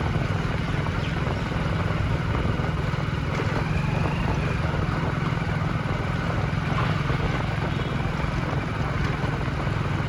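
Steady rumble of a vehicle on the move in road traffic, with no sudden events.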